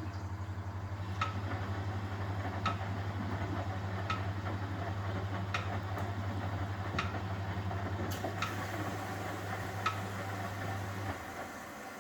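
1971 Constructa Garant 491 washing machine in its wash cycle: a steady low hum with a light click about every second and a half. The hum drops out shortly before the end, the pause between drum turns.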